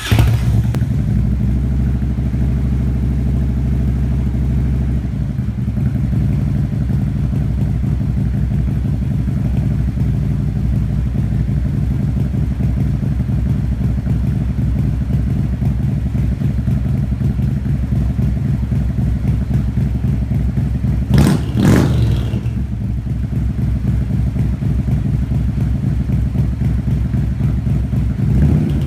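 Harley-Davidson V-twin engine idling steadily through its mufflers just after starting, with one short throttle blip about two-thirds of the way through.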